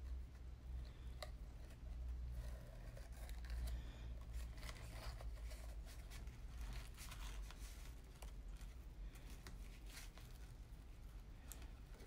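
Ribbon and card stock being handled on a craft table: scattered light rustles and small clicks as the ribbon is worked around a paper card, over a steady low hum.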